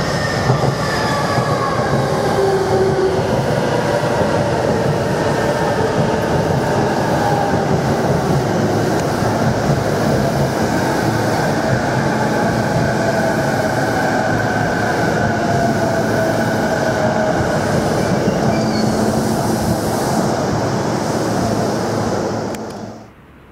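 JR East E233 series electric commuter train passing close by, with steady wheel and running noise on the rails and faint tones slowly falling in pitch. The sound cuts off abruptly near the end.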